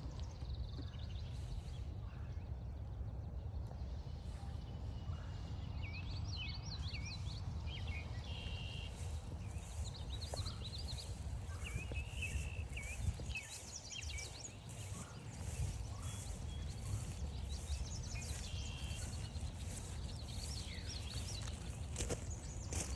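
Several songbirds chirping and trilling over a steady low rumble, with regular footsteps walking along a trail.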